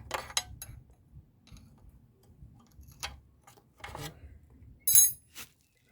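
Sharp metallic clicks and taps of a wrench working on a diesel engine's connecting rod cap bolts, scattered and irregular. The loudest click comes about five seconds in, with another just after it.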